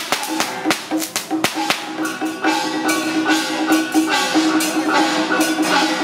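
Loud festival procession music: many sharp percussion strikes over a sustained melody line.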